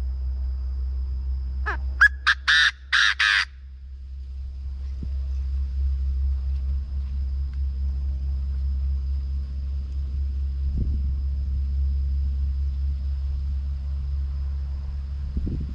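Chinese francolin calling: one loud, harsh phrase of about five notes, the first ones rising, about two seconds in. A steady low rumble runs underneath.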